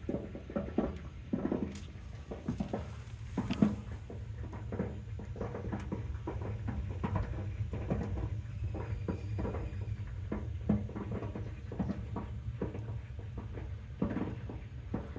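Water heater tank crackling and popping irregularly over a steady low hum, typical of sediment built up in the bottom of the tank. The noise is taken as the sign that the water heater needs replacing.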